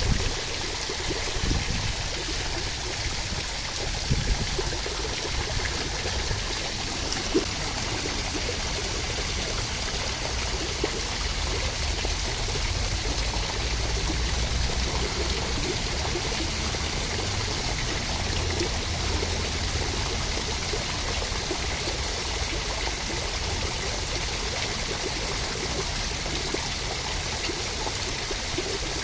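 Steady rain: an even hiss of falling water with a low rumble underneath and a few brief louder taps.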